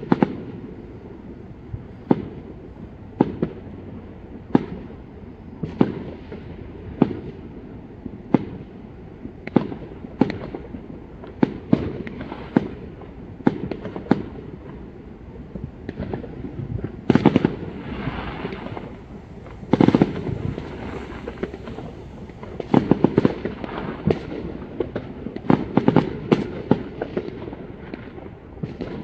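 Fireworks going off, one sharp bang every second or so, with quicker crackling volleys about two-thirds of the way through and again near the end.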